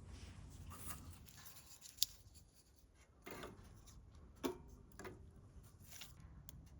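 Wood fire being made in a camp wood stove: scattered sharp crackles and light knocks, with the sharpest clicks about two seconds in and again after four seconds, over a faint low hum.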